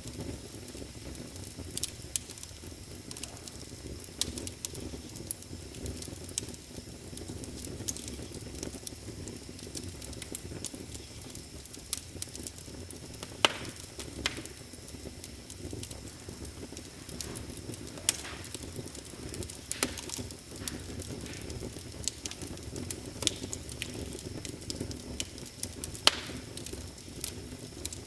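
Wood fire crackling in a fireplace: irregular sharp pops and snaps over a low steady rumble, with two louder pops about halfway through and near the end. A faint steady high tone sits underneath.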